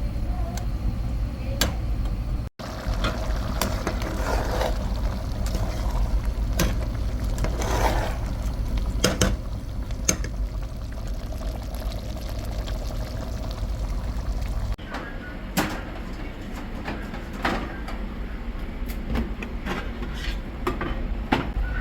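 Cooking sounds: scattered clinks and knocks of pots, dishes and utensils, with some pouring or stirring, over a steady low rumble. The background changes abruptly after a cut about two-thirds of the way through.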